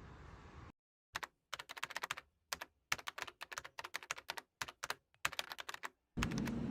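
Typing on a computer keyboard: quick irregular runs of key clicks with brief pauses, the gaps between strokes completely silent. Near the end a steady low hum starts abruptly.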